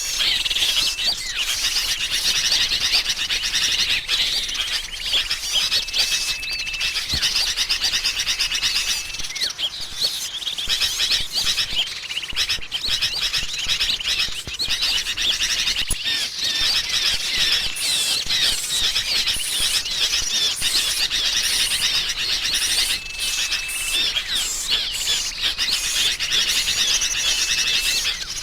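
Dense, unbroken chatter of agitated sooty-headed bulbuls mixed with calls of small songbirds, with a few short level whistles now and then. It is a bird-trapping lure recording, the noisy alarm-like bulbul commotion meant to draw small birds in.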